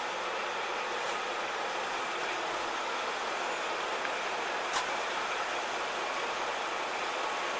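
A train running with a steady, even noise, with a short click about five seconds in.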